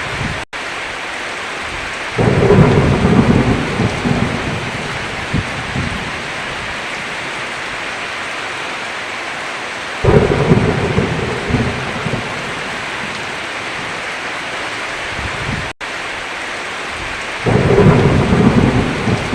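Steady heavy rain with three thunder rumbles, about two seconds in, ten seconds in and near the end. Each comes in suddenly, loud and low, and fades over a few seconds. Twice the sound cuts out for an instant.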